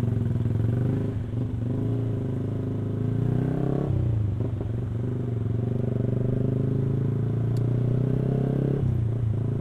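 Yamaha R15 single-cylinder engine with an aftermarket exhaust, ridden away from a stop and held at a steady note. The note dips briefly and picks up again about four seconds in and again near the end, as the rider changes gear.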